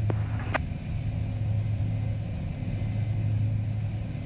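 Steady low drone inside the cockpit of a Gulfstream G-IV running on the ground at idle, with two short clicks within the first second.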